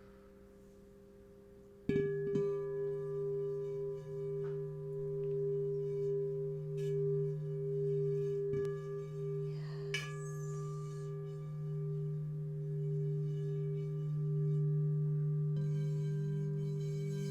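Singing bowl struck about two seconds in, then ringing on with a low hum and a higher tone that pulses in level. Another bowl tone joins near the end.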